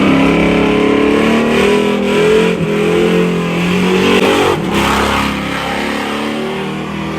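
A vehicle engine revving: the pitch climbs, then is held at high revs with small rises and dips, and eases off near the end.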